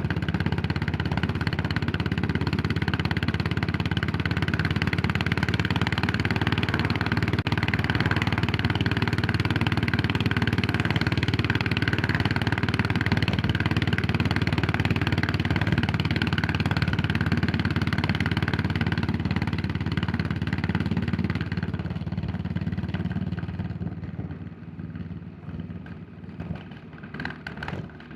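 Yamaha SR400 single-cylinder four-stroke engine running steadily under way, then closing off about three-quarters through: the sound drops in level and settles into slow, uneven low-rev beats near the end.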